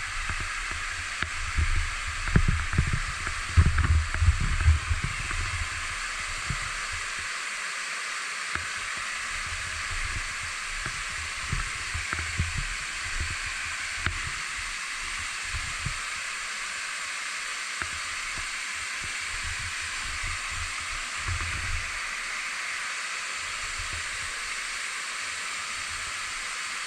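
Waterfall: a steady rush of falling water. Irregular low rumbles come through during the first five seconds.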